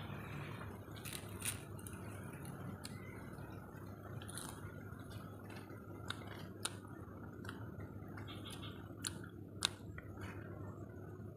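Quiet eating by hand: soft chewing of fried catfish and rice, with scattered sharp little mouth clicks and smacks over a steady low background.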